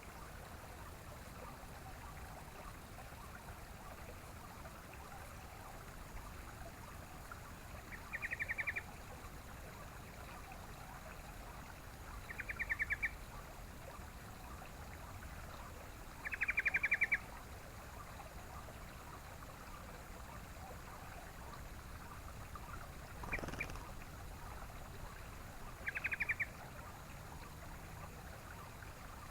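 Yellow-vented bulbul (trucukan) giving short chattering calls, four quick rattling bursts spaced several seconds apart, over a faint steady hiss.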